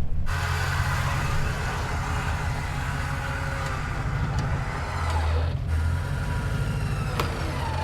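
Truck engine running steadily at idle, a low hum that swells slightly about five seconds in, with a single sharp click near the end.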